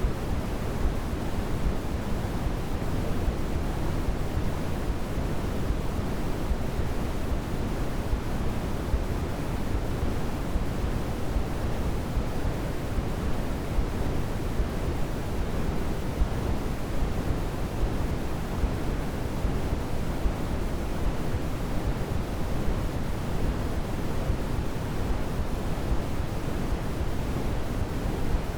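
Steady sleep-aid noise (the soft 'white noise' sold for babies), a continuous even hiss weighted toward the low end and fading toward the highs, unchanging throughout.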